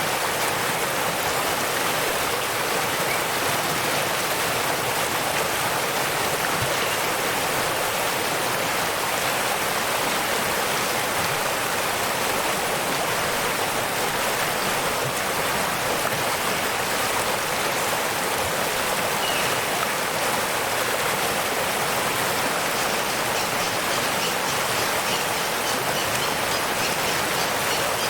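Waterfall: water rushing steadily in an even, unbroken hiss.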